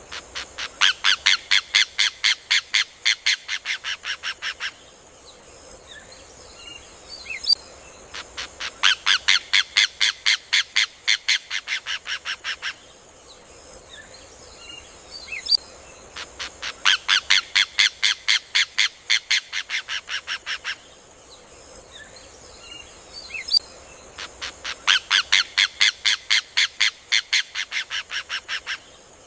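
Rufous hornero (João de Barro) singing four bouts of its rapid, ringing song, each a fast run of sharp repeated notes that starts loud and tapers off over about four seconds, one bout every eight seconds or so, over a steady high hiss.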